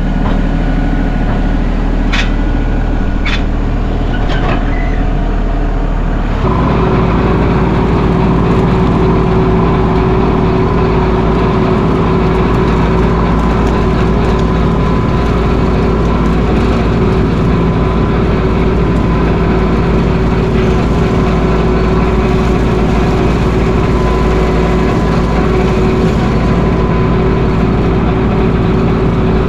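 Mahindra 1626 sub-compact tractor's diesel engine running steadily, with a couple of short clanks in the first few seconds. About six seconds in, the engine note steps up suddenly to a higher, slightly louder pitch and holds there.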